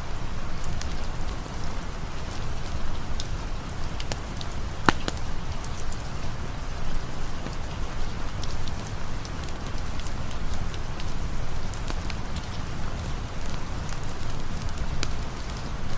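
Rain and campfire ambience: steady rain over a low rumble, with scattered sharp ticks and crackles and one louder snap about five seconds in.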